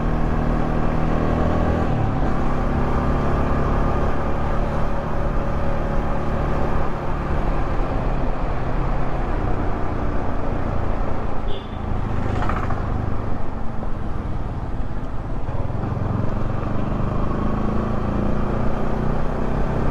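Yamaha R15 V3's single-cylinder engine running through its stock exhaust while being ridden, its note shifting about two seconds in and again later on. A brief whooshing sweep passes a little past the middle.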